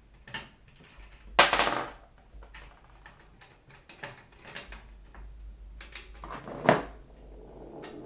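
Clicks, knocks and scrapes of computer parts and a PC case being handled during assembly, with a louder scrape about a second and a half in and a sharp knock near the end.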